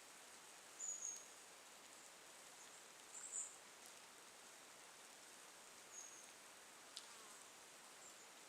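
Faint forest ambience: a steady low hiss with a few short, high-pitched chirps, about a second in, near the middle and again later, and one faint click near the end.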